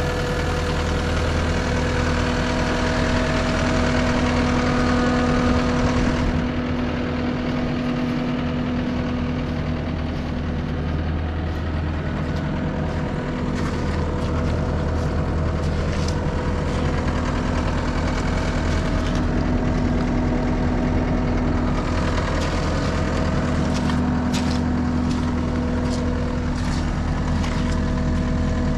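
John Deere 331G skid steer's diesel engine idling steadily. A few light clicks come through in the second half.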